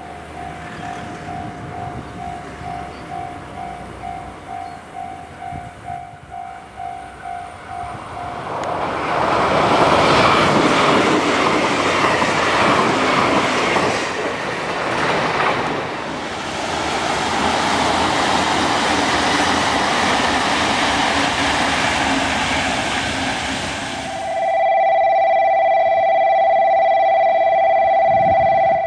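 Level-crossing bell dinging about twice a second, then the loud rush and rumble of a train running at speed past the crossing, with wheels on the rails. After an abrupt cut, a steady electronic warning tone sounds as a JR Kyushu 885-series 'Sonic' limited express approaches.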